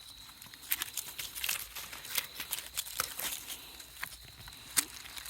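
Irregular rustling and crunching footsteps of puppies scampering on dry ground cover, with a sharp click near the end.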